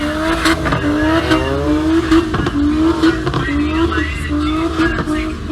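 Car engine revved up and held at high revs, its pitch wavering up and down slightly every half second or so. Voices are faint in the background.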